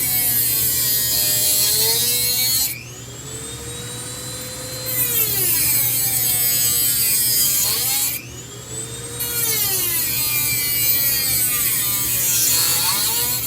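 Handheld rotary power tool cutting into the copper windings of a ceiling fan motor in three passes. The motor's whine sags in pitch as the wheel bites and climbs back up in the short gaps between cuts, and the cutting heats the copper.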